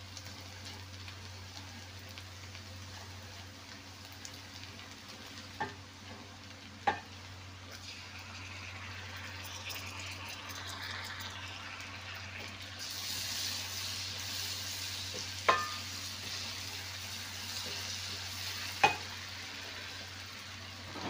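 Garlic and paprika sizzling as they fry in a stainless steel pot, stirred with a wooden spoon; the sizzle grows louder about halfway through. The spoon knocks sharply against the pot four times.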